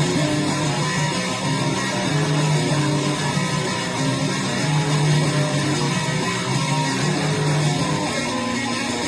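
Electric guitar, a Fender Stratocaster through a Boss DS-1 distortion pedal and a Fender Super Champ X2 amp, playing held notes with a distorted tone, picked up by a phone's microphone.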